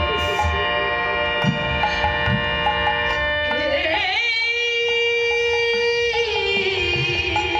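Bengali kirtan music: steady held instrument tones with scattered drum strokes, and a voice that rises at about three and a half seconds, holds a long wavering note and slides down near the end.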